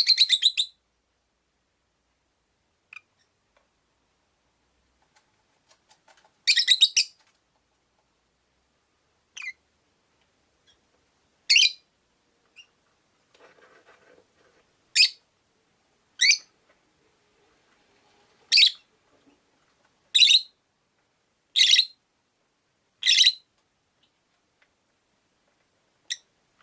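Rosy-faced lovebirds giving short, loud, high-pitched calls one at a time, about ten in all, with pauses of one to three seconds between them.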